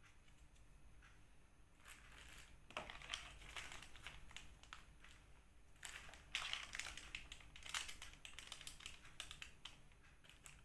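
Faint, irregular crinkling and crunching from hands handling bait ingredients and their packaging, in scattered bursts of crackles that thicken about a third of the way in and again past the middle.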